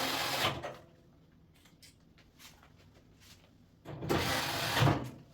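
Two scraping, sliding noises about a second long each, the second starting about four seconds in, with faint clicks between: dryer parts being handled and moved.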